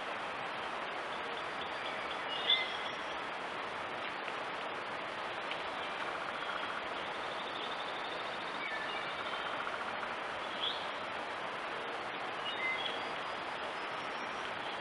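Steady outdoor hiss with a few short bird chirps scattered through, the clearest about two and a half seconds in and another near eleven seconds.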